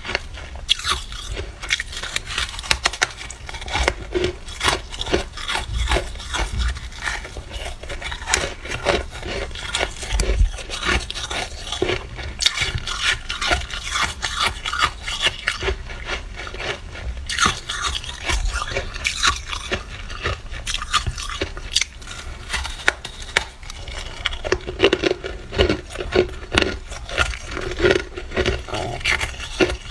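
Frost being scraped off the inside of a freezer: a dense, irregular run of short scraping strokes, several a second.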